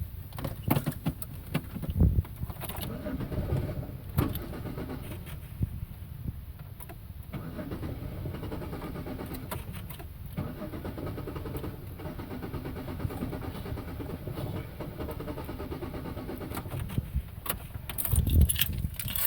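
2001 Chevy Monte Carlo engine cranking on the starter without catching: two cranking attempts, one of a few seconds and then one of about ten seconds. This is the crank-but-no-start condition. Keys jangle and click at the start.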